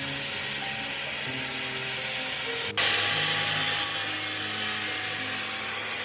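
Power tool working on metal with a steady, high-pitched abrasive hiss, over background music with slow held notes. It breaks off for an instant almost three seconds in, then carries on.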